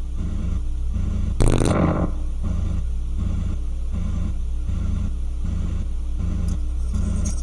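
Giant steel spring on a wooden beam, heard through a contact mic: a low rumble pulsing in a regular rhythm. About a second and a half in comes one sharp crash that rings out and fades.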